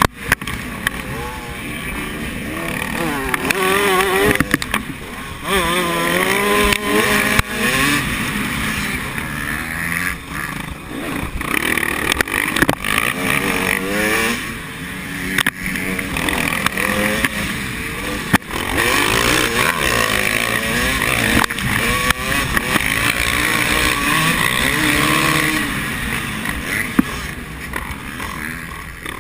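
Several motocross bikes racing, their engines revving up and down in overlapping pitches as they accelerate, shift and pass by.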